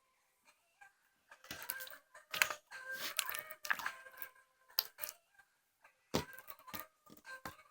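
Slime being squeezed and pressed, giving irregular clusters of sharp clicking and crackling pops.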